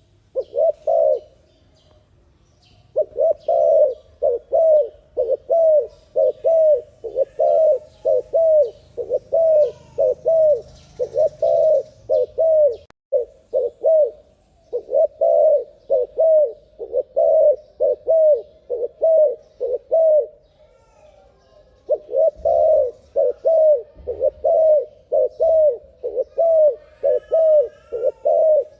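Turtle dove cooing in a fast, steady run of short coos, about two a second, breaking off briefly three times: near the start, about halfway, and about two-thirds of the way through. Faint chirps of other birds sound higher up.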